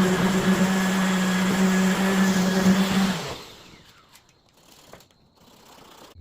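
Electric power sander running steadily on wood, with a steady hum under a coarse hiss. It is switched off about three seconds in and winds down.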